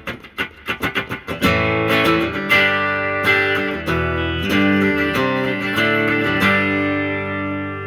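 Electric guitar, a single-pickup Telecaster Esquire, played clean through a 1964 Epiphone Pacemaker 10-watt tube amp with its 10-inch Kendrick speaker and a reverb pedal switched on. It opens with a quick run of muted, choppy strums, then moves to ringing chords that sustain and fade.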